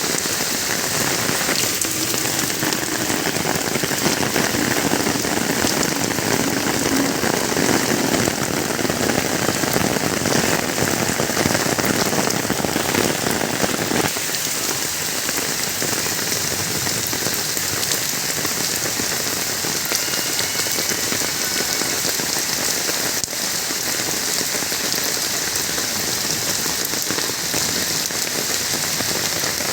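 Steady rain falling on surfaces, a continuous patter. About halfway through the sound changes abruptly and loses some of its deeper patter.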